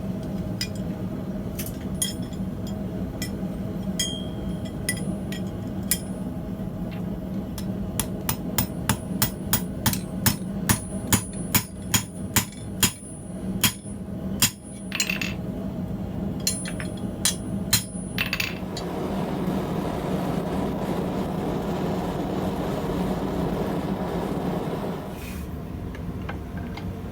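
Hand hammer striking steel tong jaws on the anvil: a run of sharp, evenly spaced blows about two a second through the middle, with scattered lighter taps before and after, over a steady hum. A louder steady rushing sound follows for several seconds near the end.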